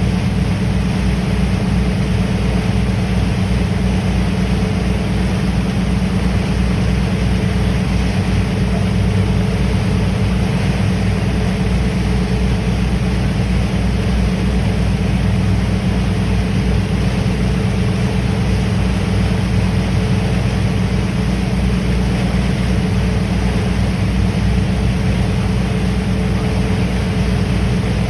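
A ferry's engines running with a steady, even low drone, heard on board, with a faint steady hum above it.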